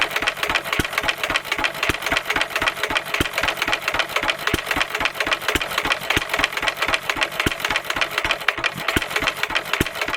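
Stuart 1/2 hp stationary engine running steadily with a fast mechanical clatter, a heavier knock landing about once or twice a second.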